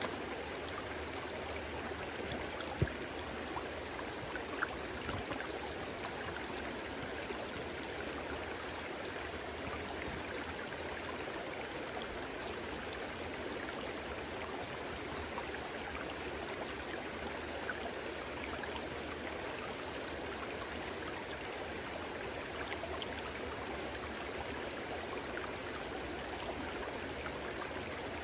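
A stream of water flowing and babbling steadily, with a few small splashes or ticks, the loudest about three seconds in.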